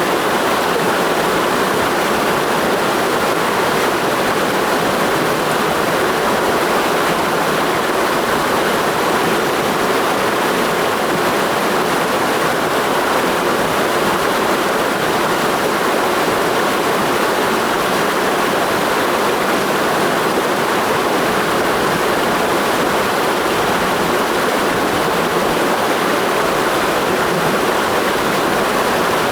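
Clear mountain stream rushing steadily over rocks, a continuous even rush of water with no breaks.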